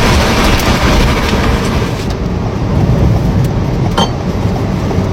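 Loud, steady rushing rumble of a nearby tornado's wind, buffeting the microphone, with a brief sharp crack about four seconds in.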